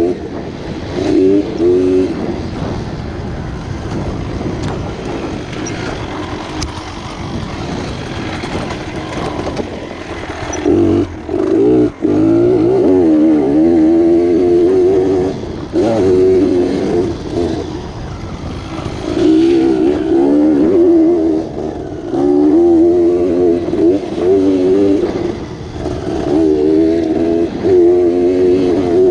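Dirt bike engine running on a trail ride, its pitch rising and falling again and again as the throttle is opened and closed, with a brief drop about twelve seconds in.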